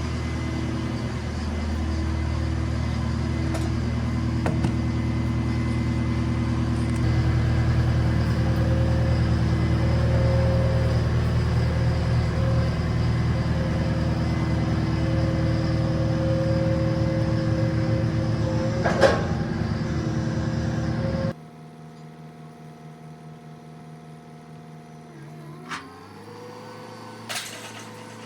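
Tractor engine running steadily, growing louder about seven seconds in, with a sharp knock near the two-thirds mark. Shortly after, it drops suddenly to a quieter engine sound that rises in pitch near the end.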